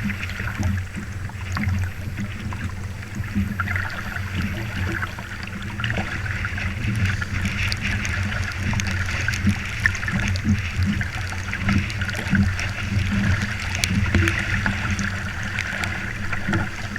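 Water rushing and splashing along the hull of a small sailing dinghy under way in strong wind, with a steady low rumble underneath.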